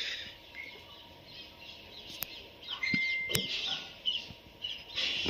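Birds chirping in short repeated calls, with two sharp knocks a little over a second apart midway.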